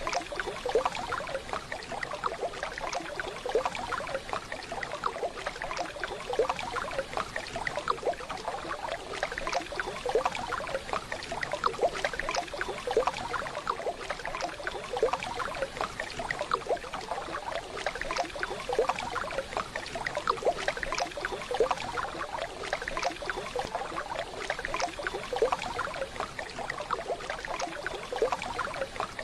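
Waterfall sound: running water splashing and babbling steadily, dense with small splashes.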